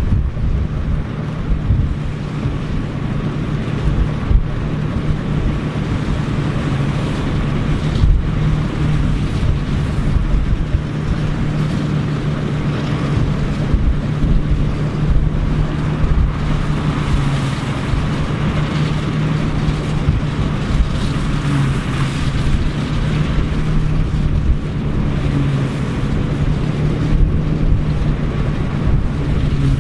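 Engine of vintage farm machinery running steadily at a constant speed, with wind buffeting the microphone.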